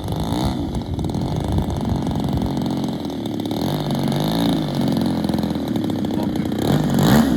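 Engine of a large radio-controlled Cessna 195 model running and revving up and down several times, with the loudest rev-up near the end.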